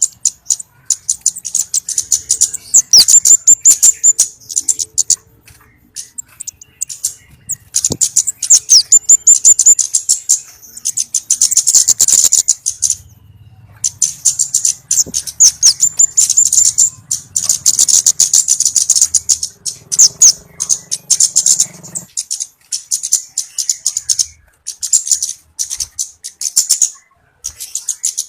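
Flowerpecker calls played as a bird-trapping lure: rapid, high-pitched chips and short trills in dense runs, broken by a couple of brief pauses.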